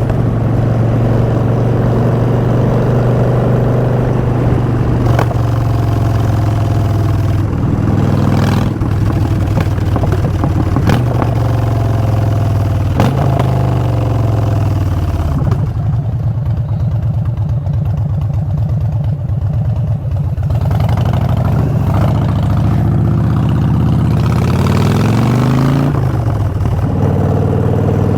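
Harley-Davidson Street Bob's Twin Cam 103 V-twin through Vance & Hines Short Shots exhaust, running steadily under way. About halfway through the engine note falls as the bike slows to a low, loping idle for several seconds, then it revs up and accelerates again.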